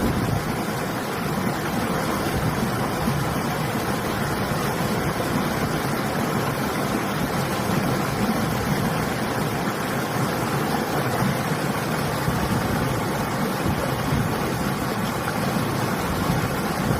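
Steady rushing of a flowing river, mixed with winter wind.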